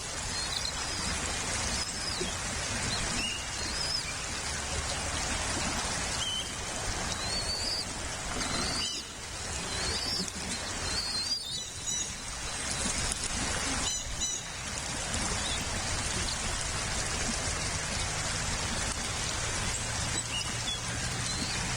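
Steady rain, with short high chirps from birds breaking through it now and then, most of them in the first two-thirds.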